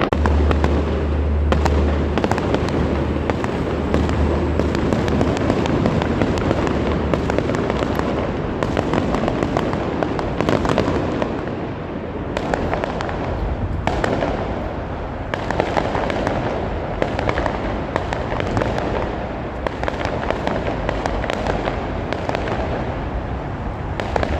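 A fireworks display crackling and popping continuously, dense rapid cracks with no pause, echoing off surrounding walls.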